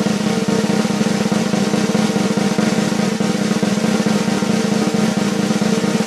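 Snare drum roll sound effect: a rapid, unbroken roll held at an even level.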